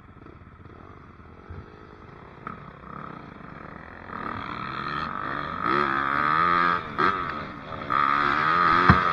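Dirt bike engine revving up and down, faint at first and growing louder from about four seconds in, the throttle dropping off briefly a few times.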